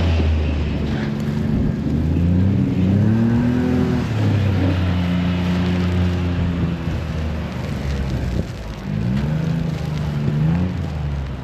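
A motor vehicle engine running close by, its pitch rising as it accelerates about two seconds in, holding steady, then rising again near the end.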